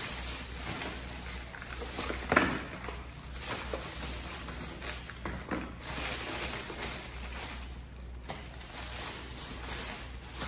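Light knocks and handling noises over a low steady hum, with one sharper knock about two seconds in.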